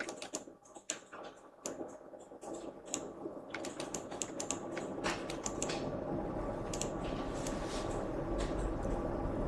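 Irregular clicking of computer keyboard keys and a mouse as a 3D animation is edited in Maya. A steady low hum comes up under the clicks about two seconds in and grows stronger later on.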